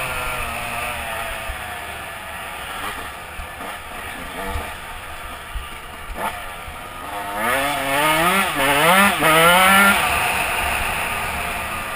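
Dirt bike engine running, its pitch falling away at first. About two-thirds of the way in it is revved hard in several quick rises and falls, the loudest part, then it eases off.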